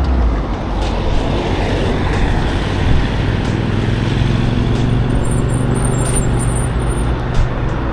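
Road traffic heard from a moving electric scooter: a steady rush of road noise, with a motor vehicle's engine humming close by from about three seconds in.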